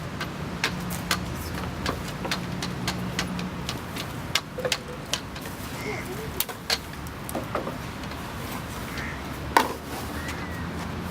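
Irregular light clicks and knocks, a few a second, with one louder knock near the end, over a low steady hum that stops a few seconds in.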